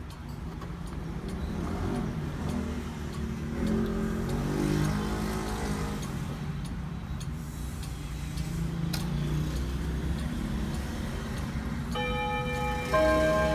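Odo 36/8 antique clock ticking over a low traffic rumble, then about twelve seconds in its chime rods start to ring, several notes sounding one after another and getting louder.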